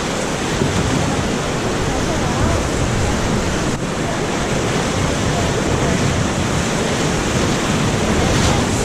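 Rushing whitewater river: a steady, even wash of moving water, with wind noise on the helmet-mounted GoPro's microphone.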